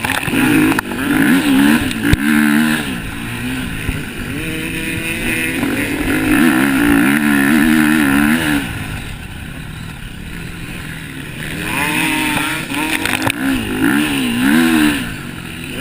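Motocross bikes racing round a dirt track, their engines revving up and dropping back again and again as the riders change gear and throttle through the course. They fade for a few seconds in the middle, then come back louder.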